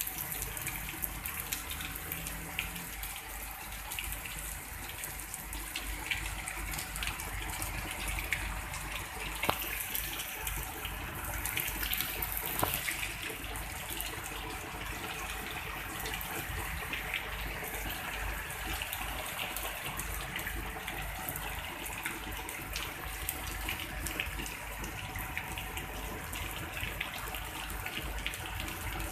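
Heavy rain falling steadily, with water dripping off a roof edge close by, heard as many sharp individual drop splashes over the constant hiss of the rain.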